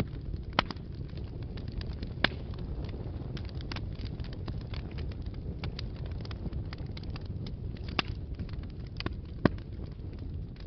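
Wood fire burning in a fireplace: a steady low rumble of flames with irregular crackles and a few sharp pops.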